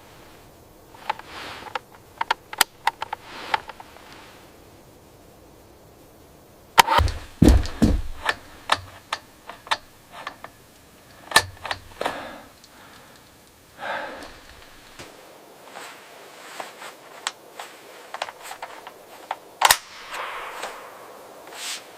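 Irregular sharp knocks and snapping clicks: a cluster in the first few seconds, a dense run from about 7 to 13 seconds, and a last loud crack near the end.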